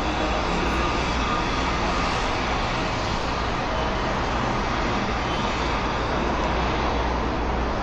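Steady noise of motor traffic on a busy city street, an even wash of engine and tyre noise with a constant low hum.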